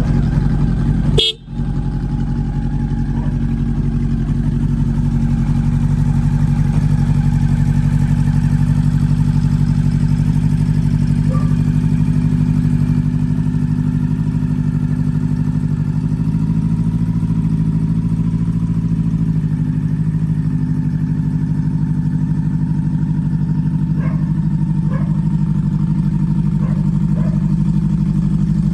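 Honda CB400 Super Four's inline-four engine idling steadily through an aftermarket LCI muffler, with a brief break in the sound about a second in.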